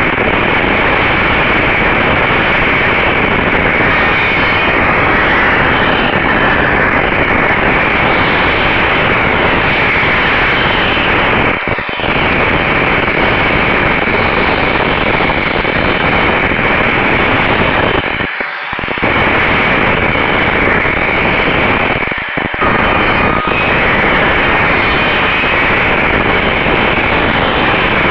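Loud, steady hissing noise on a RunCam 2 action camera's audio track, with a faint steady tone under it. The noise drops out briefly three times.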